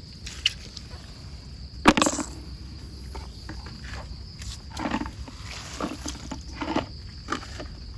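A steady high-pitched insect trill, with a handful of short knocks and rustles over it. The sharpest knock comes about two seconds in.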